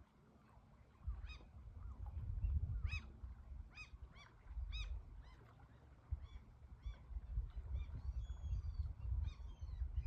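Waterbirds calling: a series of about a dozen short, arched honking calls, some in quick pairs, over a low rumbling noise.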